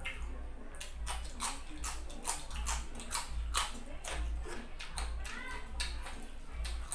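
Close-miked eating sounds: wet chewing and lip smacking, with many short sharp clicks, as a mouthful of fried chicken and rice is chewed.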